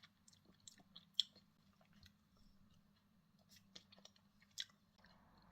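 Faint chewing of a bite of mochi ice cream: scattered small wet mouth clicks and smacks, the sharpest about a second in.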